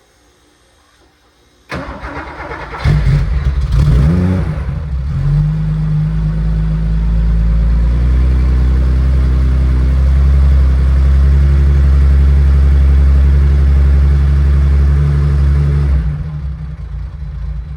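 1973 Porsche 911E's air-cooled 2.4-litre flat-six cold-started and heard at the tailpipe: the starter cranks about two seconds in, the engine catches a second later with a short rise in revs, then settles into a steady idle. The engine is switched off near the end.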